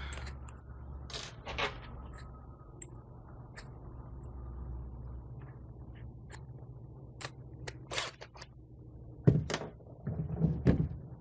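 Small clicks, taps and scrapes of a bit being changed in a drill's chuck, with a few louder knocks near the end.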